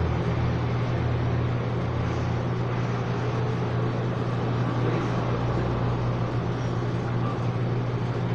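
Steady low mechanical hum under an even background hiss.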